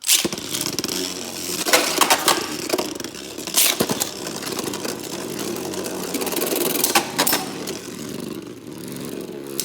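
Two Beyblade Burst spinning tops, one of them 3D-printed, launched into a plastic stadium and spinning with a steady whirring scrape, with sharp clacks as they hit each other several times.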